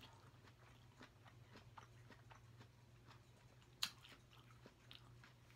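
Faint chewing of fruit close to the microphone: scattered small wet mouth clicks, one sharper click about four seconds in, over a faint steady low hum.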